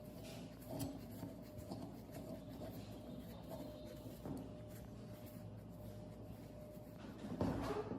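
Faint scratching and rubbing of hand work, with a few light clicks over a faint steady hum, and a louder knock near the end.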